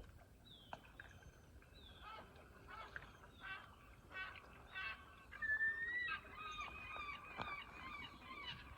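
Birds calling outdoors: a rapid series of short, faint honking calls, each dropping in pitch, about two a second, with one longer call about halfway through.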